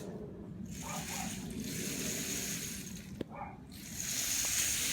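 Homemade rain stick being tipped: a long rushing patter like falling rain, a brief break with a click about three seconds in, then a second pour.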